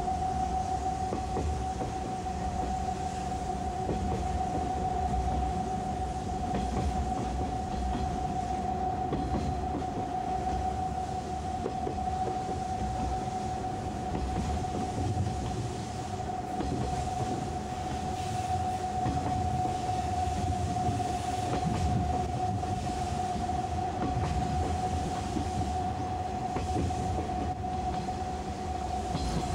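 JNR 185-series electric train running, heard from inside the carriage: a steady rumble of wheels on rail with intermittent clatter over the joints, and a steady high whine throughout.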